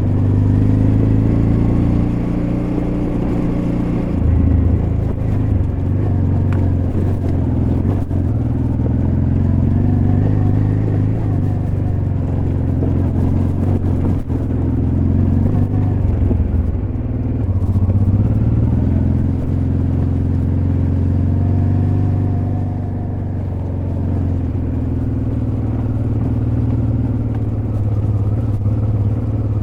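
Honda Transalp XL600V's V-twin engine running steadily on a dirt road ride, its pitch rising and falling several times with the throttle, with a few brief knocks from the bike over rough ground.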